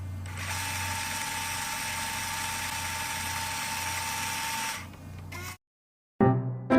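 Rewind sound effect: a tape-rewinding whir with a low hum and a steady whine, which cuts off about five and a half seconds in. About half a second later, short bouncy musical notes begin.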